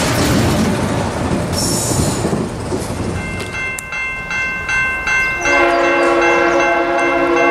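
Cuyahoga Valley Scenic Railroad diesel train passing close by with a heavy rumble of engine and wheels. After about three seconds this gives way to a high ringing tone broken by short gaps. About five and a half seconds in, a diesel locomotive's multi-note air horn sounds loudly and holds.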